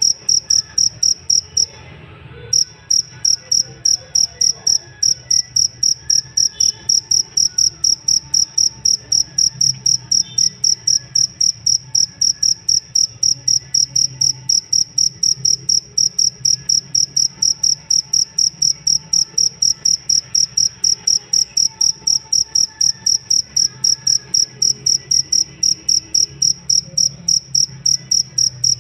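Cricket (jangkrik ngerik) chirping in a fast, even train of high-pitched pulses, about three a second, with one short pause about two seconds in.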